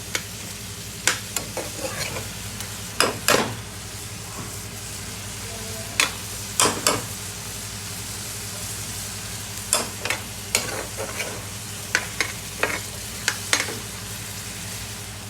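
Food sizzling in a hot pan while a metal utensil stirs it, clanking sharply against the pan about fifteen times at irregular intervals, over a steady low kitchen hum.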